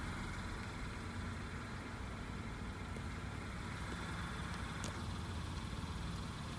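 Nissan Note (E12) engine idling steadily, with one light click about five seconds in.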